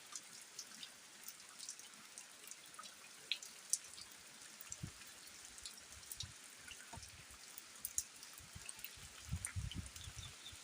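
Light rain falling: scattered drops tick and drip irregularly over a faint hiss, with soft low thuds in the last few seconds.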